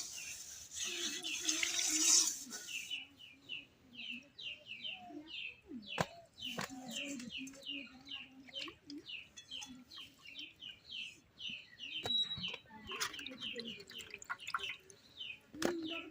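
A bird chirping over and over: a quick run of short, falling chirps, about three a second. For the first two seconds or so a steady hiss runs underneath, then cuts off abruptly.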